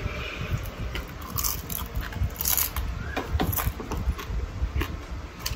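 Close-up chewing and crunching of a crisp fried snapper fin, with irregular crackles and crunches that come one after another.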